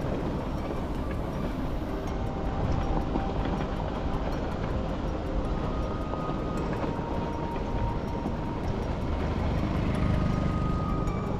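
Steady rumble of a vehicle travelling along the road, road and wind noise heavy in the low end, with faint brief high tones coming and going over it.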